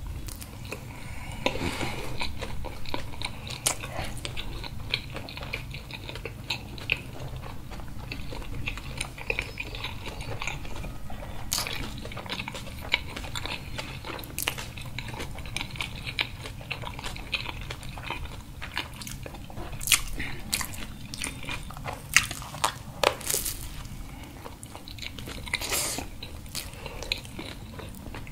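Two people biting and chewing hot dogs in soft buns close to the microphone: a steady, wet chewing sound with many irregular sharp clicks and snaps.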